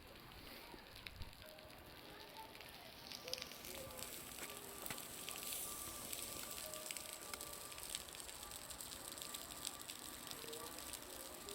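Meltwater dripping and falling from a building's roof, a dense irregular crackle of ticks and pops that sounds much like a bonfire crackling. It grows denser and louder about three and a half seconds in.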